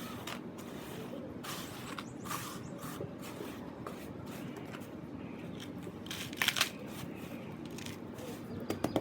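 Gritty sand cement being handled: scattered soft scrapes and crunches over a steady low hiss, with a louder crunch about six and a half seconds in and a run of quick taps starting near the end.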